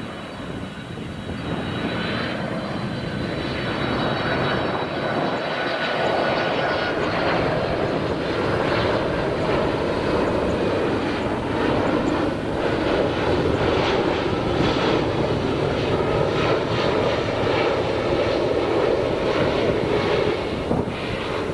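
Boeing 767-300ER freighter's twin jet engines on its landing. The jet noise grows louder over the first few seconds, with a high whine that fades out after about seven seconds, then holds as a steady loud rush.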